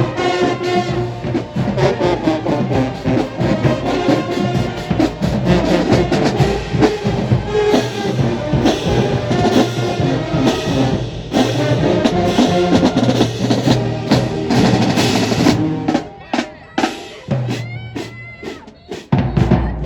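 Marching band playing loud: brass over a pounding drum section. About three-quarters of the way through the full sound drops away, leaving separate drum hits and quieter horn notes.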